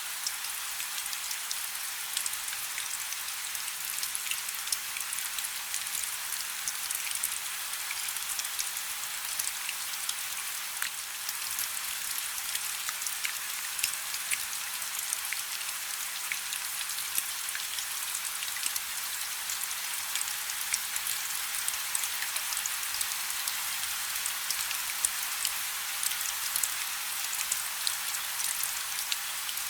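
Steady rain falling on a river's surface: an even hiss scattered with many small, sharp drop patters.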